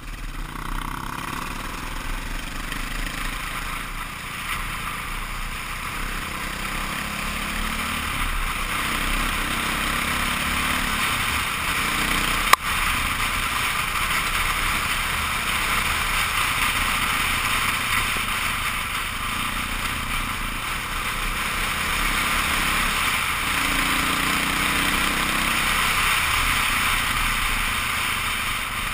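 KTM 530 EXC single-cylinder four-stroke dirt bike engine running under way, its pitch rising and falling with the throttle, under a steady rush of wind and tyre noise on gravel. A single sharp knock about twelve seconds in.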